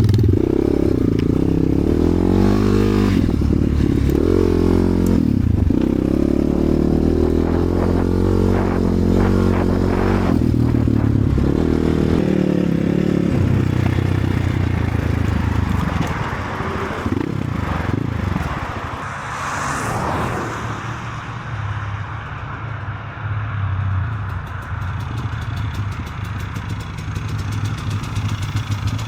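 Enduro motorcycle engine running and being revved, its pitch rising and falling repeatedly, then dropping to a quieter, steadier low running, near idle, about 16 seconds in.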